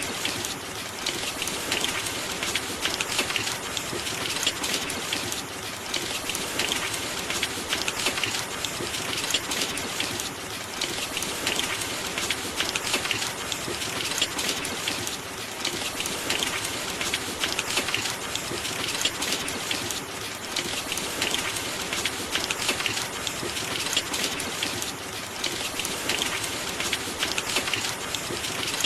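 Steady rain: a dense, even shower of drops that swells slightly every couple of seconds.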